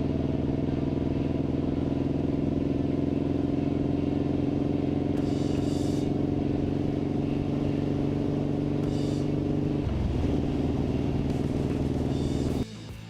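Suzuki Boulevard M109R's V-twin engine running at a steady pitch, dipping briefly about ten seconds in, then cutting off shortly before the end.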